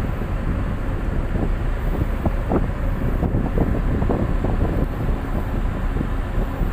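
Tug boat's engine running with a steady low drone, mixed with wind buffeting the microphone.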